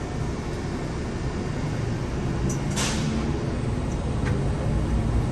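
PHX Sky Train automated people-mover running along its guideway, a steady low rumble that slowly grows louder as it gathers speed. A brief hiss comes about three seconds in.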